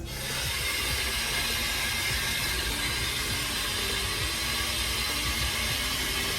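Sink faucet running at high water pressure: a steady hiss of water.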